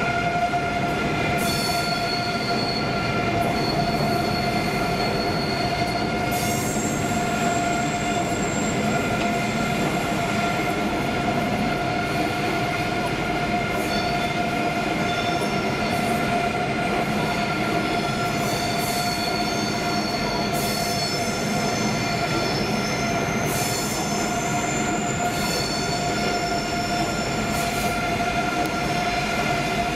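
Eurostar high-speed train moving slowly through the station on curved track, its wheels squealing: high squeals come and go many times over a steady electric whine.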